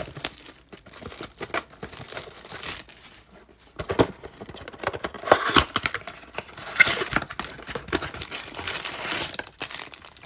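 Plastic wrapper of a trading-card pack being torn open and crinkled in the hands, in irregular crackling handfuls with a short pause about three seconds in.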